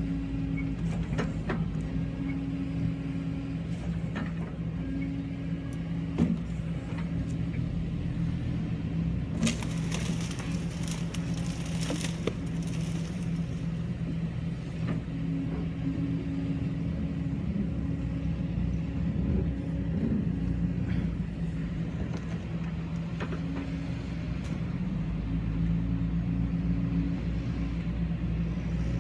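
Kobelco SK140-8 excavator's diesel engine running steadily under work. About ten seconds in comes a few-second burst of cracking and splintering wood as a tree is pushed over, with scattered snaps of branches elsewhere.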